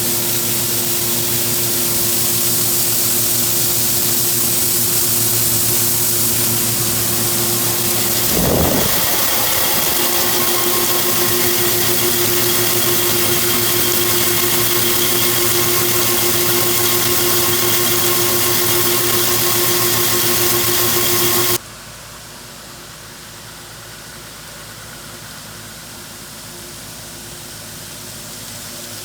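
A farm machine's engine running steadily with a broad hiss over it, dipping briefly in pitch about eight seconds in. It cuts off abruptly near the end, leaving a quieter steady hiss.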